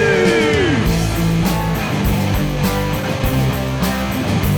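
A worship band playing a rock-style song. A long sung note slides down and ends about a second in, and the band then plays on without singing.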